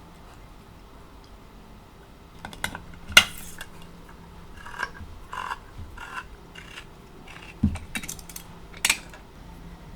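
Kitchen utensils and dishes being handled during food prep. There are a few sharp clinks and knocks, the loudest about three seconds in, then a run of softer strokes, a low thump, and more clinks near the end.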